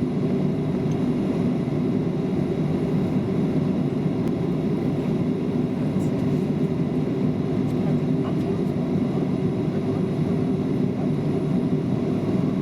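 Airliner's jet engines and airflow heard from inside the cabin: a steady, even, deep rumble with a faint high whine.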